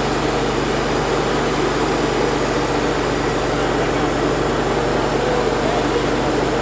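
Wood-Mizer LT35 sawmill's 25-horsepower engine running steadily.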